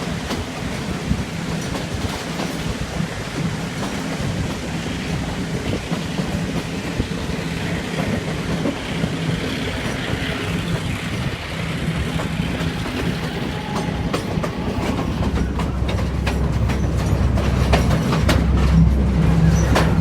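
A train hauled by an EMD two-stroke diesel locomotive running along the line: a steady low engine drone with wheels clicking over the rail joints. Toward the end the rumble deepens, the clicks come thicker and the sound grows louder.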